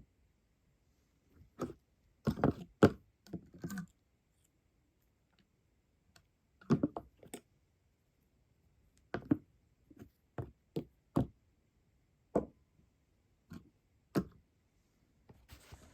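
Irregular sharp knocks and clicks on a hard surface, some single and some in quick little clusters of two to four, with short silent gaps between.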